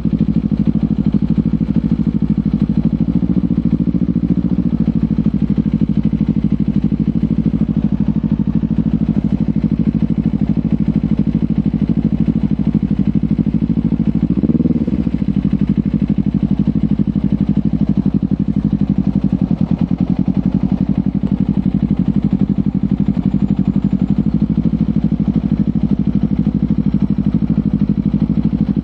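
Kawasaki Ninja 500 parallel-twin engine through a LeoVince GP Corsa Evo exhaust, running at a mostly steady engine speed while riding. Revs briefly rise and fall once about halfway through.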